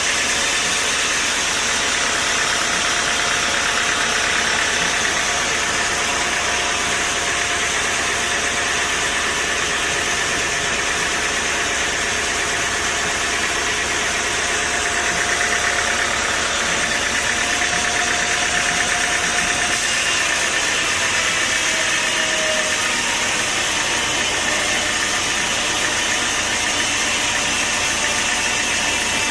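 Sawmill machinery running steadily: a constant mechanical drone under a loud hiss, with a faint steady whine.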